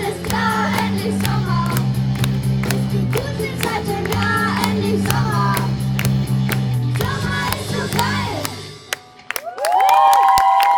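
Live band song with sung vocals over bass and drums, ending about eight and a half seconds in; loud cheering and high whoops from the audience follow near the end.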